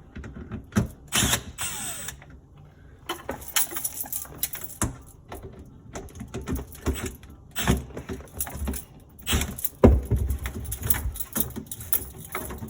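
Irregular clicks, knocks and short scrapes of hand tools and fittings as a garbage disposal's connections are loosened, with one heavier knock about ten seconds in.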